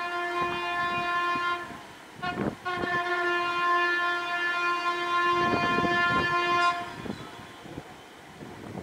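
Diesel locomotive air horn sounding a steady chord: a blast that ends about two seconds in, a short blip, then a longer blast of about four seconds that cuts off near the end. Train wheels clack underneath.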